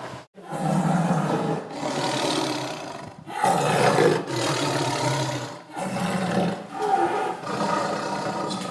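Tiger roaring and growling: a run of about six deep calls, one straight after another, each a second or so long, after a brief break just after the start.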